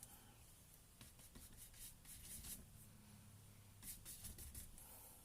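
Faint scratching and scrubbing of a large paintbrush working acrylic paint onto the painting surface, in two short spells of strokes, about a second in and about four seconds in.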